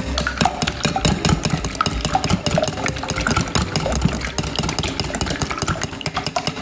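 Food frying in a pan of hot oil, a dense irregular crackling and sizzling.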